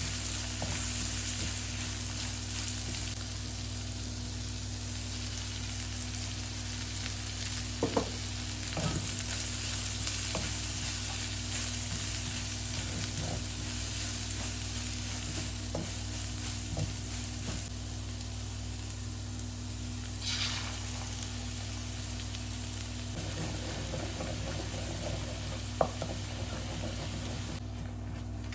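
Food sizzling in a hot pan as it is stir-fried, with occasional sharp clicks of a utensil against the pan over a steady low hum. The sizzle cuts off suddenly near the end.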